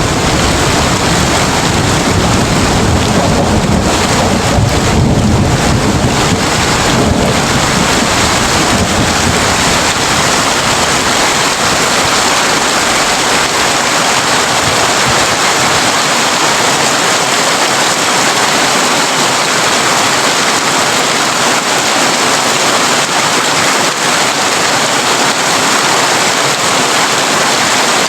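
Heavy rain drumming steadily on a tin roof. A low thunder rumble runs under it for roughly the first third and fades out, leaving only the rain.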